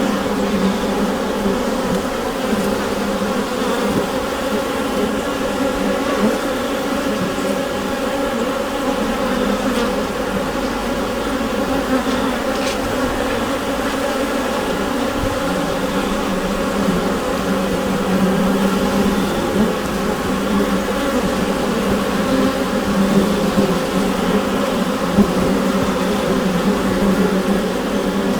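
A honeybee colony buzzing inside the hive: a dense, steady hum of many bees together, pitched low with layered overtones.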